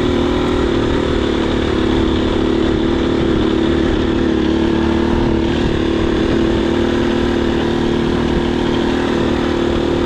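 Husqvarna FE250 four-stroke single-cylinder dirt bike engine running at a steady, even pitch, held at a constant throttle.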